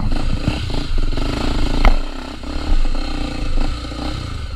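Trail motorcycle engine running steadily, with a few sharp knocks, the loudest about two seconds in.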